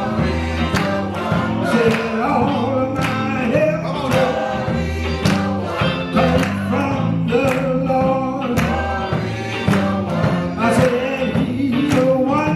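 Gospel choir and lead singer singing a praise song over instrumental accompaniment with a steady beat.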